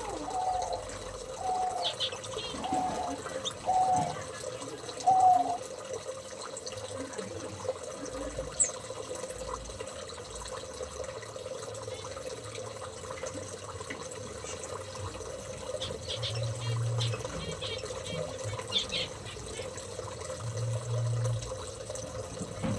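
Small aviary birds calling: a short, slightly falling call repeated about once every second for the first five seconds, then scattered high chirps near the middle and end, over a steady hiss.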